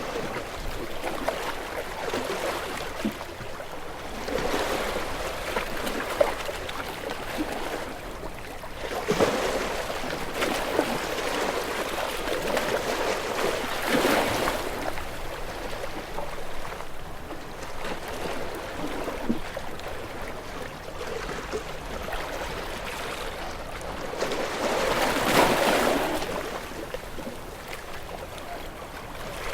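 Ocean waves washing ashore, a continuous wash of surf with larger breakers swelling up every few seconds, the biggest near the end.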